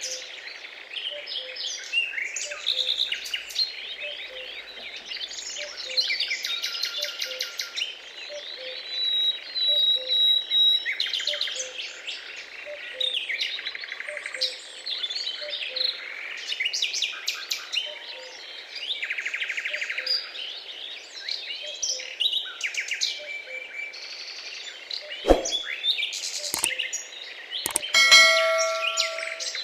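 Dense chorus of many birds chirping, trilling and whistling, overlapping one another, with a soft low note repeating about three times every two seconds beneath them. A few sharp knocks come near the end.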